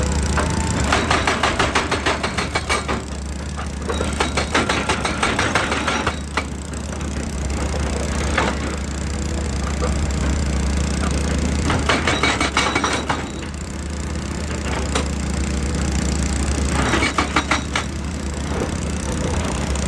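Excavator diesel engine running steadily, with several bursts of rapid cracking and rattling as the machine works rock and stone.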